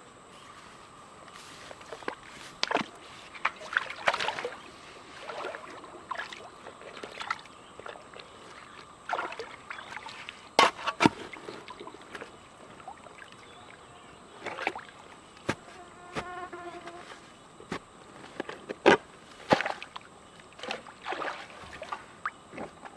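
Irregular knocks, taps and short scrapes of hand work, spaced unevenly over a steady high insect buzz.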